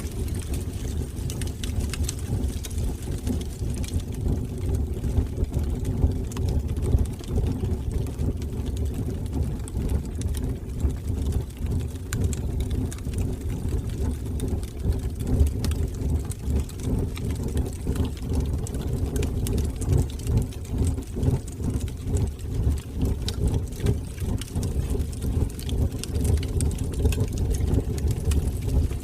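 Fire burning in a fireplace: a steady low rumble of flames with many small crackles and pops scattered through it.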